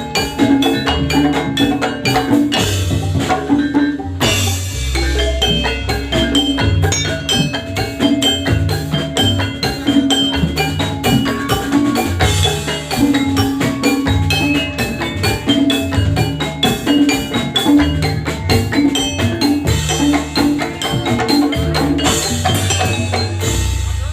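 Instrumental Javanese gamelan music for a jathilan dance, with no singing. Metallophones ring in a quick, steady pattern over drums, with deep low strokes about four seconds in and again near the end.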